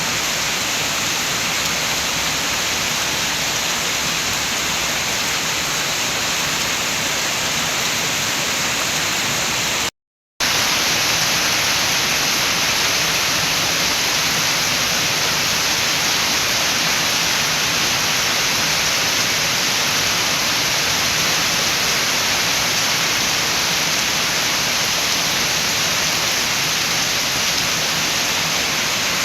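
Steady rain with wind, a dense even hiss. About ten seconds in it cuts out to silence for half a second, then comes back slightly louder.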